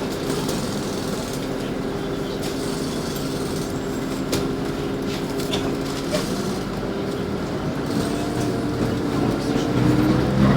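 LiAZ 5292.65 city bus running, heard from inside the cabin: a steady hum with a low whine from the drivetrain, whose pitch shifts and grows louder near the end.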